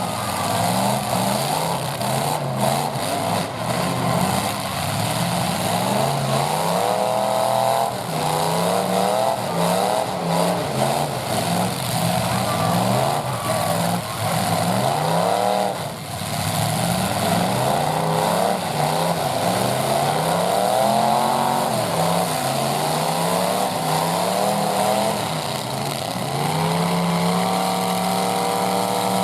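Full-size pickup truck engines revving up and falling back again and again, several at once and overlapping, as the demolition derby trucks accelerate and back up.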